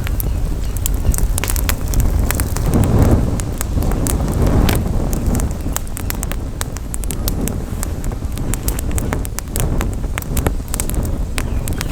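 Campfire crackling, with many irregular sharp pops and snaps. Under it is a steady low rumble of wind on the microphone, swelling a few seconds in.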